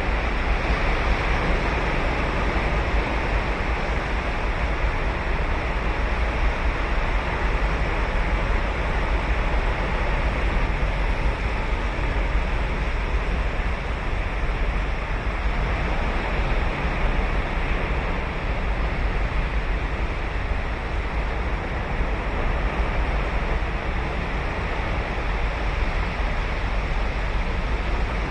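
Ocean surf breaking and washing on a sand beach as a steady, continuous roar, with a strong low rumble that may include wind on the microphone.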